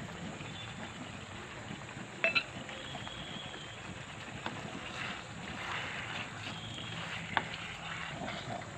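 Chicken pieces sizzling in a pan while a wooden spatula stirs them, with a light knock about two seconds in and another near the end.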